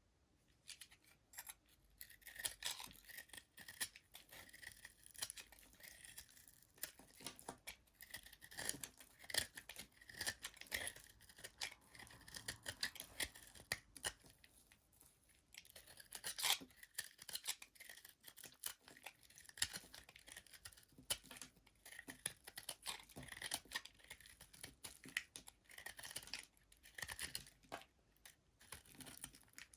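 Soap being cut with a blade: a steady run of crisp, crackly cuts and scrapes, one after another.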